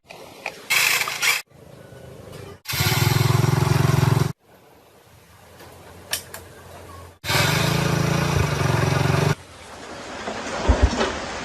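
Short spliced-together workshop clips, in which a small motorcycle engine runs steadily twice for about two seconds each time, with quieter scraping and handling noise between.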